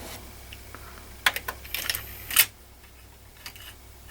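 A handful of sharp mechanical clicks and taps about a second in, ending with a louder short rasp about two and a half seconds in, over a low steady hum.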